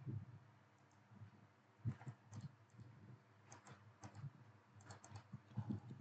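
Faint, irregular clicks of a computer keyboard and mouse, a few scattered through the stretch, over a low steady hum.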